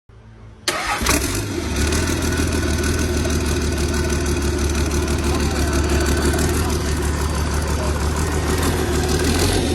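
Hino C6 engine starting: faint at first, it comes in suddenly less than a second in and then runs steadily and loudly.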